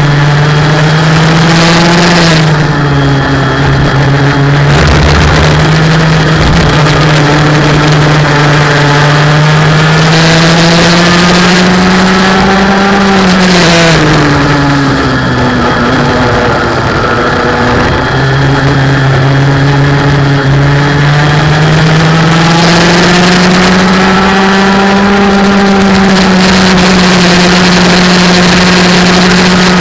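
A race car's engine under hard load, loud and close. Its pitch climbs slowly as it accelerates, drops suddenly about two seconds in, falls away about thirteen seconds in as it slows, then climbs steadily again.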